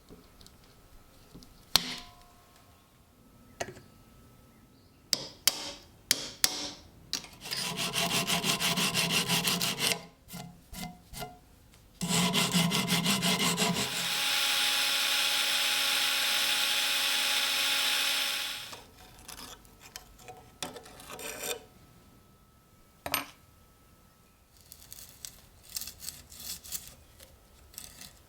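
Hand work on the knife or its wooden scales: scattered taps and clicks and two spells of rapid rasping or sawing strokes. Then a small power tool runs steadily for about four seconds and stops.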